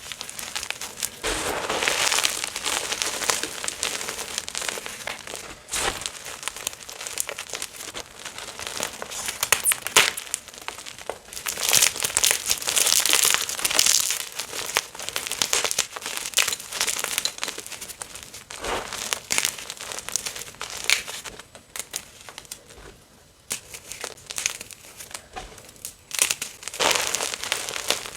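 Chunks of gym chalk being crushed and crumbled, a dense run of crunching and crackling with a quieter stretch about three quarters of the way through.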